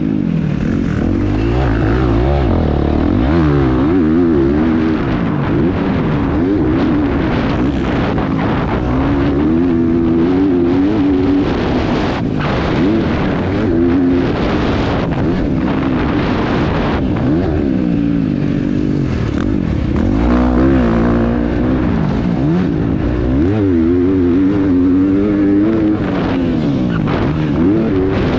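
KTM 350 XC-F dirt bike's single-cylinder four-stroke engine being ridden hard, its revs rising and falling over and over as the throttle is worked and gears change.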